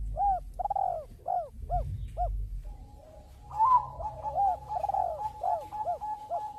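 Zebra dove (Bangkok perkutut) cooing: a quick run of short rising-and-falling notes, then from about halfway a steady held tone with more short coos over it, above a low background rumble.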